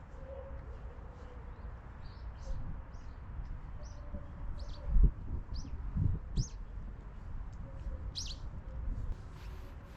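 Birds chirping in short, high calls scattered every second or so, over a low outdoor rumble. A couple of low thumps come about halfway through.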